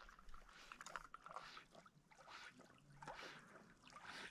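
Faint scattered splashing and dribbling of water as a retrieving dog moves through the water bringing back a shot duck.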